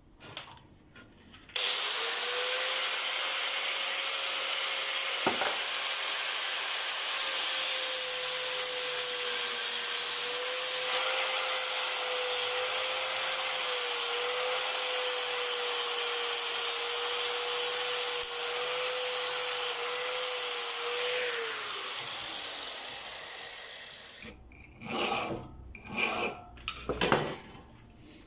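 Electric power tool starts up about a second and a half in and runs steadily with a rasping for about twenty seconds while metal is worked for a replacement pistol firing pin, then winds down with a falling whine. A few knocks and clinks follow near the end.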